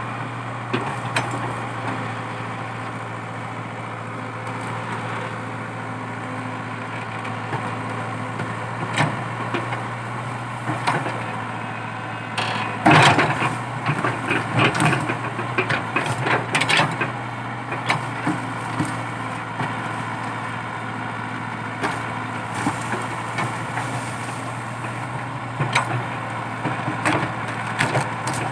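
Komatsu PC80 excavator's diesel engine running steadily under load while it rips out a eucalyptus stump, with wood cracking and splintering as the roots give. The cracks and snaps come thickest about halfway through, and again near the end.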